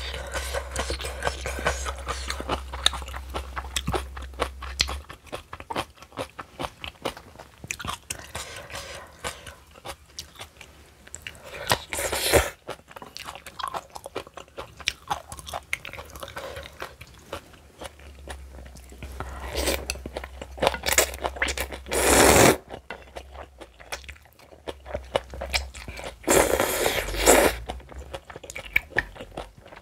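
Close-miked eating: crisp crunching and chewing, typical of spicy cabbage kimchi being bitten and chewed, with many small mouth clicks. Three louder noisy stretches, each about a second long, come near the middle, about two-thirds through, and near the end.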